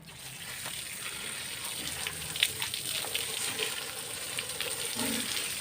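Steady sizzling with many small crackles and a sharper pop about two and a half seconds in.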